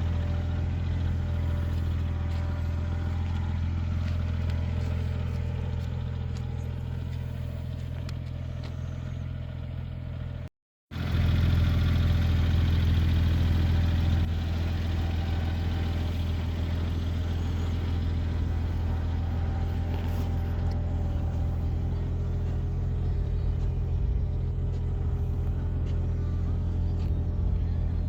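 Porsche 996 911 Turbo's twin-turbo flat-six idling steadily. It cuts out briefly about ten seconds in, comes back a little louder for a few seconds, then settles to the same steady idle.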